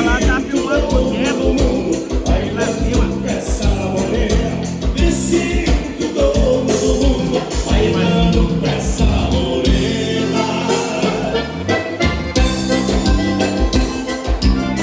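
Live gaúcho dance-band music with a steady beat and singing.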